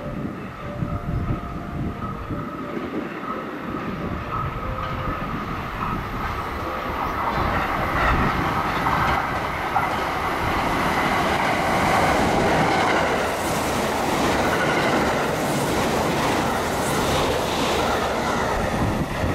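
A limited express electric train passing through the station at speed without stopping. The rail and wheel noise builds over the first several seconds to a steady loud rush as the cars go by, with rhythmic clacking of the wheels over rail joints.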